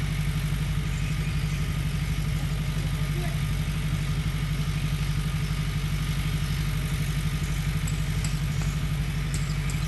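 Heavy-equipment diesel engine running steadily at low revs, with a fast, even low pulse.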